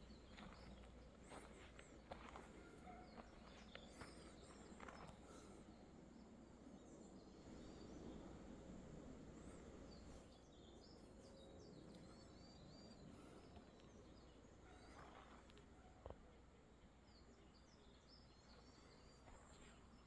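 Quiet outdoor ambience with small birds chirping off and on, short high calls scattered through, and a few soft clicks or knocks.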